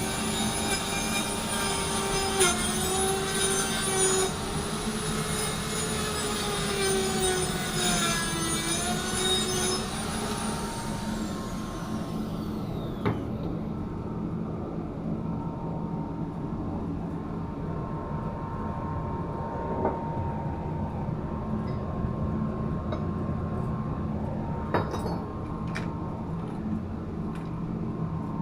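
A power tool runs with a whine whose pitch wavers and dips as it works. It is switched off about ten seconds in and spins down in a falling whine. A steady machinery hum with a faint high tone carries on after it, with a couple of sharp clicks near the end.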